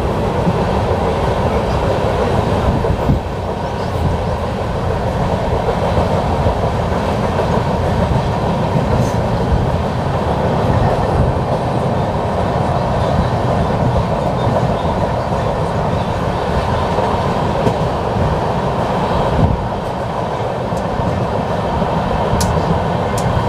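Passenger train running steadily, heard from aboard a coach: a continuous rumble of wheels on rails, with a few brief sharp clicks.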